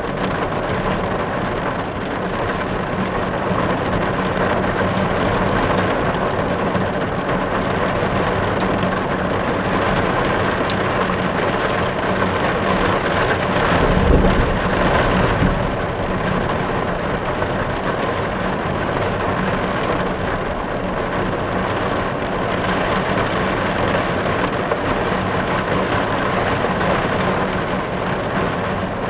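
Steady rain drumming on a car's roof and windows, heard from inside the car. A brief low rumble swells up about halfway through.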